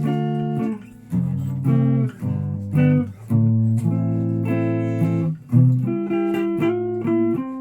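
A guitar played solo: plucked single notes and chords, each ringing and dying away before the next, with a few short breaks between phrases.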